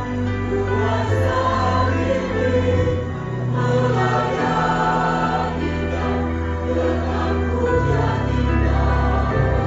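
Church choir singing in parts, holding long chords over sustained low bass notes that shift every second or two.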